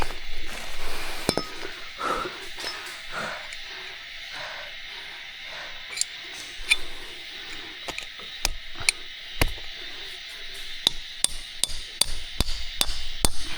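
Repeated sharp knocking blows, as of something hard striking wood: a few scattered knocks at first, then a quicker run of several knocks a second over the last few seconds, above a steady high hiss.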